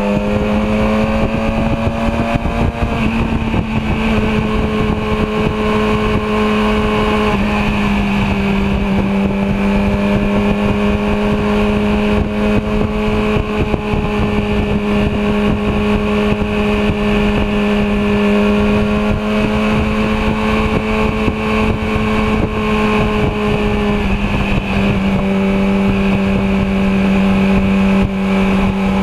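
Yamaha R6's inline-four engine running steadily while riding at cruising speed, with wind rushing over the microphone. The engine's pitch climbs slightly in the first few seconds, then holds nearly level with small shifts.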